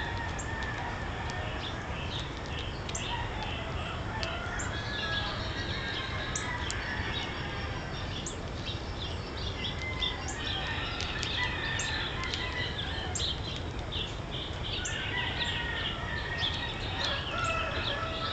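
Small birds chirping and twittering over and over, with longer calls from domestic chickens or a rooster coming in now and then, over a steady low background rumble.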